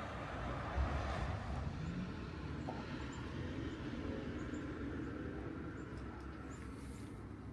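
A motor vehicle passing, a steady low rumble that eases off near the end.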